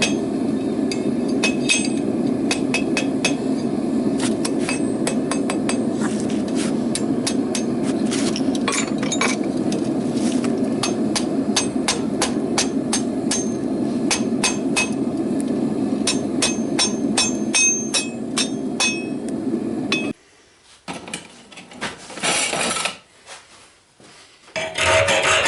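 A hammer strikes hot rebar steel on an anvil in quick, irregular blows over a steady low drone. The hammering stops about twenty seconds in, and near the end a metal file starts rasping.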